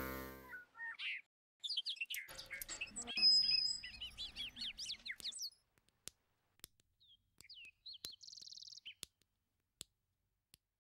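Small birds chirping in quick, rising and falling calls through the first half, thinning out to scattered sharp clicks and one short buzzy trill near the eight-second mark. The tail of a sung prayer fades out right at the start.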